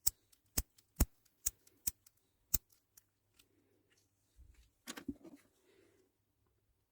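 Sharp clicks of a vintage Shimano ST-7S20 seven-speed shifter's lever indexing from gear to gear: six clicks about half a second apart, then a short clatter of handling about five seconds in.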